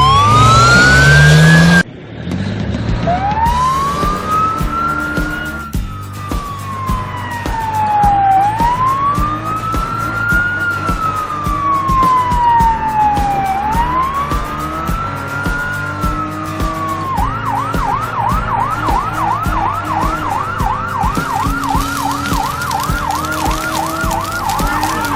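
Cartoon emergency-vehicle siren sound effect: a rising sweep, then a slow wail rising and falling about every five seconds, switching to a fast yelp of about three cycles a second for the last eight seconds.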